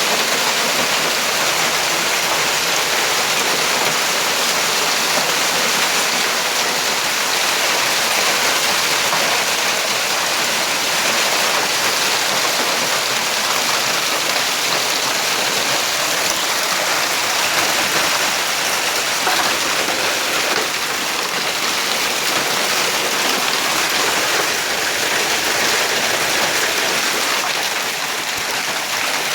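Hail and rain pelting down hard in a hailstorm: a dense, steady patter of countless small impacts that never lets up.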